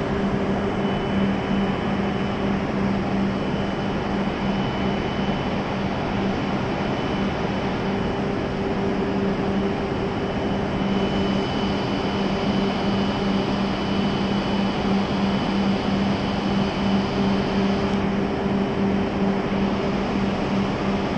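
A W7 series Shinkansen standing at the platform: a steady hum and whir from its onboard equipment, with a low drone and a faint high whine that fades in and out a few times.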